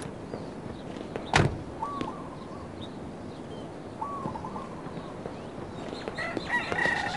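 A bird giving a short, hooked call about every two seconds over outdoor background noise, with a single sharp knock about a second and a half in. More calls join near the end.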